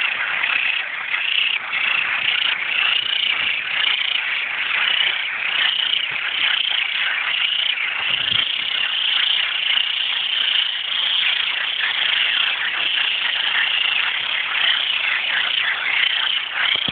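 A dense chorus of many male frogs giving mating calls, a continuous overlapping mass of short high repeated calls.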